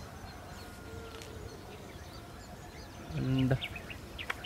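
Small birds chirping in short calls over a low steady rumble of wind and handling on the microphone. Just over three seconds in, a man's voice gives a brief low wordless sound lasting about half a second.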